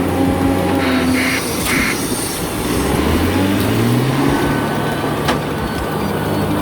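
Heavy truck engine running under load, its pitch climbing a couple of seconds in as it picks up revs. Two short hisses come about a second in, and there is a sharp click near the end.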